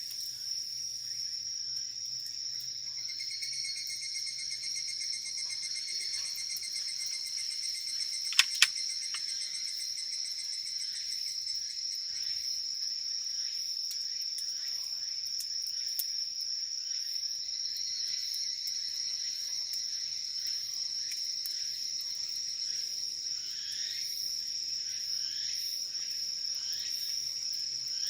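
Crickets and other insects chirring together in a steady, continuous high trill, with two sharp clicks about eight seconds in.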